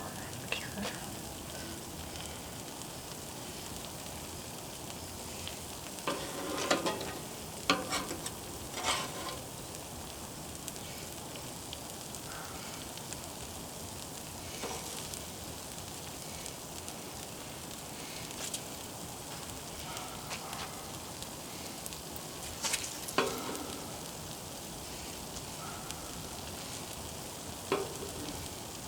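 Cheese-crusted buttered bread frying on a Blackstone flat-top griddle: a steady sizzling hiss. A few short clatters break through, a cluster about six to nine seconds in, one past the middle and one near the end.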